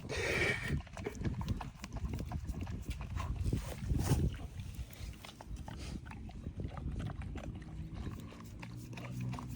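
A Doberman licking and eating a pup cup of whipped cream: a run of irregular short licking and chewing clicks.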